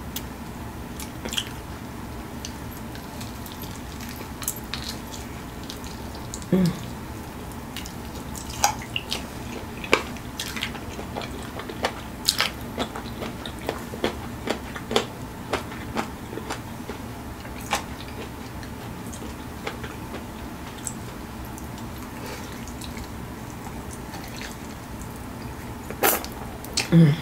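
Close-miked eating of Flamin' Hot Cheetos-coated fried chicken wings: scattered wet mouth clicks and smacks while chewing, over a steady low hum. A louder bite comes near the end.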